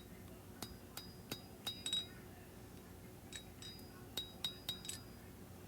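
Light hammer taps on an anvil during hand forging of a high-carbon steel knife blank: about a dozen short metallic clinks, each with a brief high ring, in two quick clusters.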